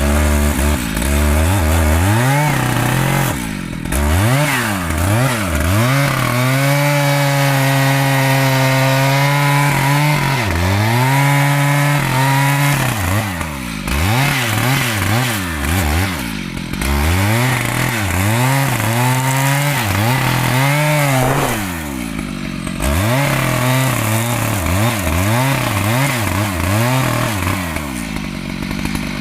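Two-stroke chainsaw cutting mahogany wood, its engine revving up and down again and again and held at full throttle for a few seconds at a time during the cuts. Near the end it drops back toward idle.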